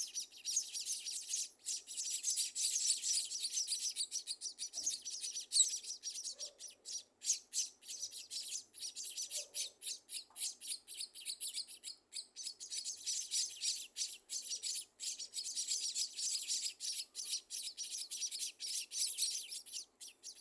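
Scaly-breasted munias chirping: a dense run of rapid, high-pitched chirps that goes on almost without a break, with a few brief pauses.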